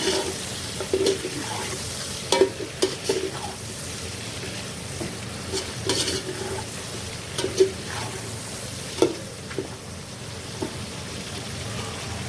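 Chicken leg pieces sizzling as they fry in hot oil with browned onions, with a spoon now and then scraping and knocking against the pot as it stirs.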